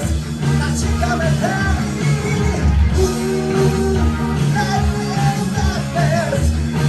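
Live hard rock band playing: drums, electric guitar, bass and keyboards, with a voice singing over them.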